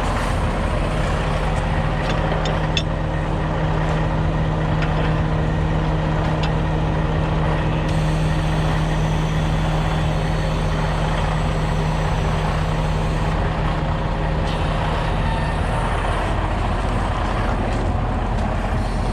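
Heavy truck's diesel engine running steadily, with a steady hum over it that stops about sixteen seconds in. A few light clicks come a couple of seconds in.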